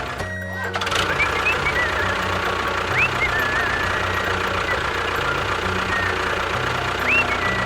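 A small engine running steadily, with a brief break just after the start and a few short high chirping glides over it.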